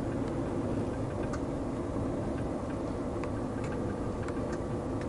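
Long-haul truck's diesel engine running with a steady low rumble, heard inside the cab, with a few faint light ticks at uneven intervals.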